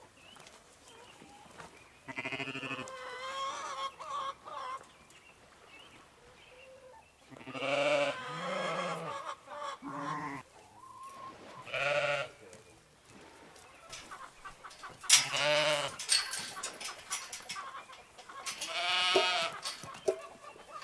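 Farm animals bleating: about six separate wavering calls, each a second or two long, coming a few seconds apart.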